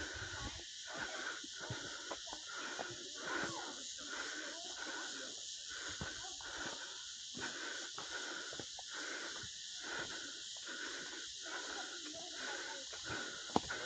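Forest ambience: a steady high insect drone, with uneven rustling and footfalls beneath it.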